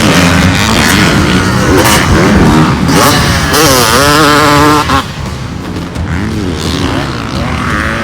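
Motocross dirt bike engines revving hard, the pitch repeatedly climbing and falling as the throttle is worked. About five seconds in the loud, close engine cuts away abruptly, leaving quieter bike engine sound.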